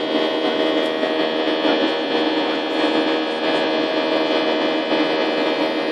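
Jet airliner cabin in flight: the steady drone of the engines and airflow, with several steady humming tones running through it.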